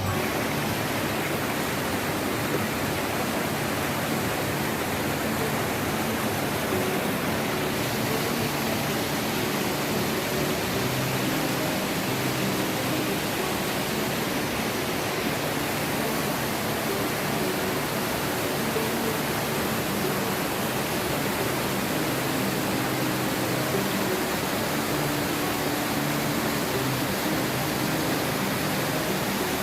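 Steady rushing of a waterfall: even, unbroken white noise of falling water.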